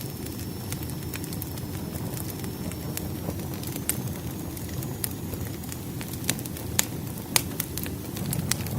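Wood fire crackling, with a steady low rumble and scattered sharp pops; a few louder pops come in the second half.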